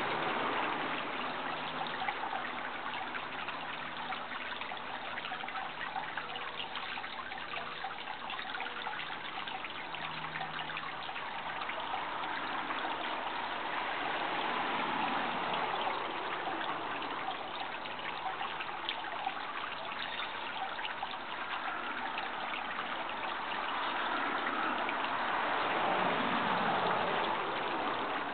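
Water running in a small stream, a steady trickling babble that swells a little now and then.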